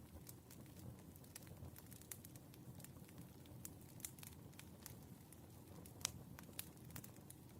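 Firewood burning, crackling with many small irregular pops over a faint low rumble of flames, and one louder pop about six seconds in.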